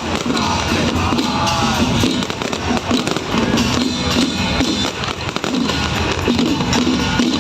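Electronic fireworks show: loud amplified music mixed with dense, rapid firecracker-style crackling played through speakers. Wavering whistle-like tones sound through the first two seconds.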